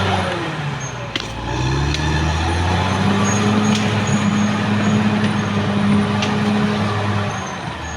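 Caterpillar D6R XL bulldozer's diesel engine working: the revs dip about a second in, climb back by about three seconds and hold steady, then fall away near the end. A few sharp clanks sound over it.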